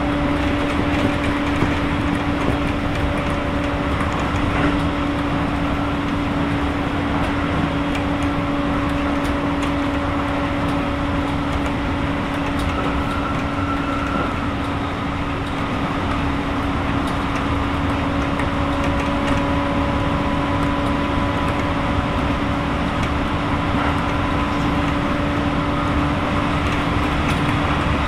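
Keisei 3000-series commuter train with Toyo IGBT-VVVF traction and TD drive, heard from inside the car: steady rolling and running noise with a constant drone from the motors and gears as the train runs at a steady speed.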